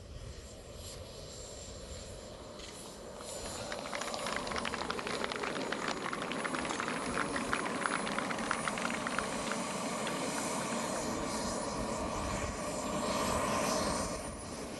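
Twin gas-turbine engines of a scale MiG-29 model jet running, a jet roar with a thin high whine that shifts in pitch. It grows louder about three and a half seconds in, swells near the end, then drops off.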